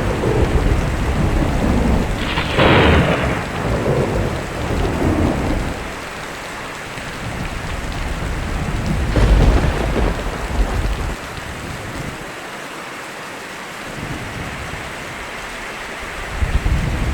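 Steady rain with rolling thunder. A loud thunderclap about two seconds in rumbles away over a few seconds, and a second one about nine seconds in. Then only rain is heard until thunder builds again near the end.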